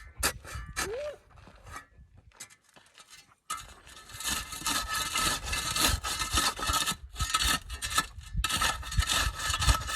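A metal digging tool striking and scraping into sandy, gravelly dirt while a rabbit hole in a dirt road is dug out: a few sharp strikes, a short pause, then about six seconds of steady gritty scraping.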